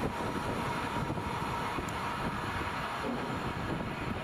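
Passenger train coaches rolling past on the rails: a steady rush of wheel and wind noise with no horn or sudden knocks.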